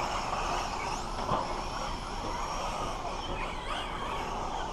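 Electric 4wd RC stadium trucks running around a dirt track: a steady wash of motor and tyre noise with a faint high motor whine that rises and falls.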